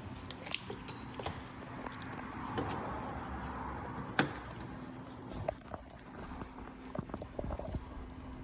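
Scattered light clicks and knocks of objects being handled, with one sharper click about four seconds in, over a faint steady hum.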